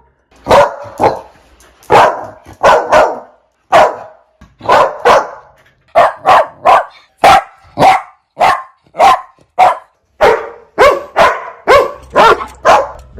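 A dog barking over and over, short sharp barks about two a second, some in quick pairs.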